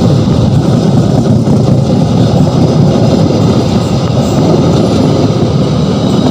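Stainless-steel passenger coaches rolling past at close range: a loud, steady rumble of wheels on the rails.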